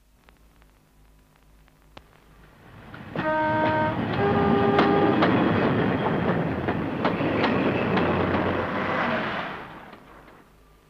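A diesel multiple unit train approaching and passing at speed. About three seconds in it sounds its horn in two notes, the second higher than the first. Then comes the loud running noise of the train with wheels clicking over rail joints, which fades away near the end.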